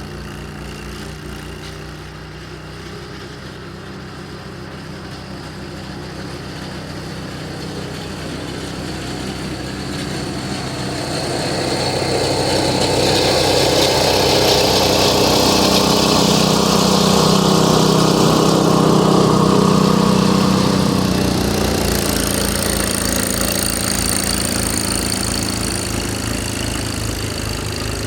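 Snowblower's 6.5 hp, 208 cc single-cylinder engine running steadily; it grows louder toward the middle and eases off near the end.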